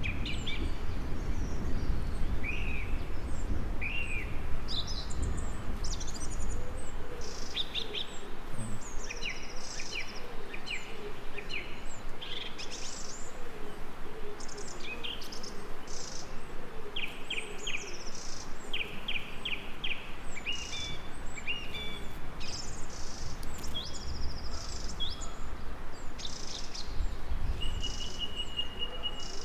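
Several songbirds chirping and trilling in quick, overlapping phrases over a steady low background hiss and rumble. Near the end one bird gives a rapid, even, high trill.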